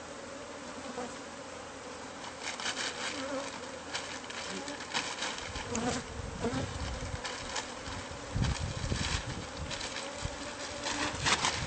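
Honeybees buzzing steadily around a hive opened up inside a house wall as the colony is disturbed during removal. Repeated rustling and crackling run through it from about two seconds in, with low bumps in the second half.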